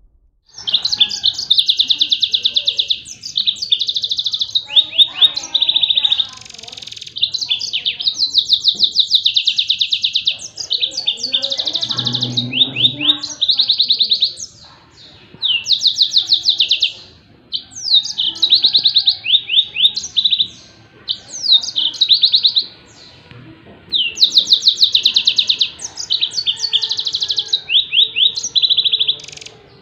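Yellow-fronted canary (Mozambique canary) singing its 'tembakan' song: loud, very fast high-pitched trills in phrases of one to three seconds, separated by short pauses.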